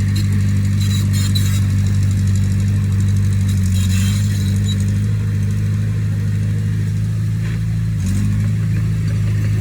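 Diesel engine of heavy construction machinery running steadily. Its speed dips a little around five seconds in and picks up again near eight seconds, with light clatter about a second in and around four seconds.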